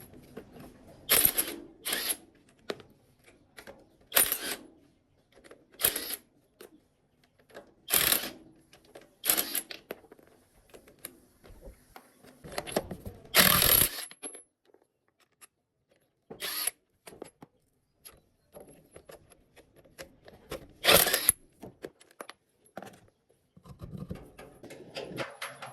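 Intermittent clatter of hand tools and metal parts being handled during mechanical repair work: about a dozen sudden, irregular clanks and scrapes, with a longer noise lasting about a second roughly halfway through.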